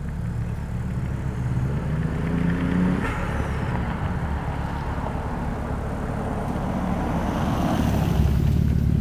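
Car engine accelerating, its pitch rising over the first few seconds and breaking off about three seconds in, followed by a rush of engine and road noise that swells louder toward the end.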